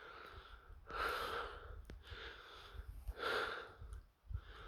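A man's heavy breathing close to the microphone while walking, in and out, with a stronger breath about every two seconds and softer ones between.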